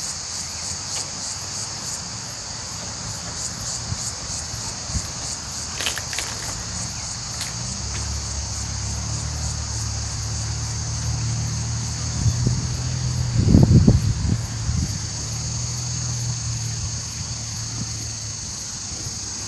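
Steady high-pitched chorus of insects. From about eight seconds in, a low rumble of wind on the microphone joins it, gusting loudest a little past the middle.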